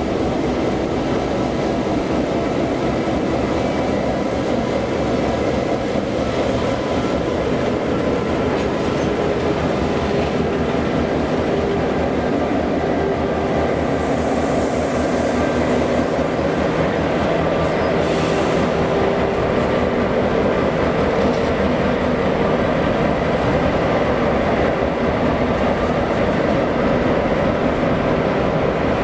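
Train running steadily: a continuous loud noise with several steady tones held throughout.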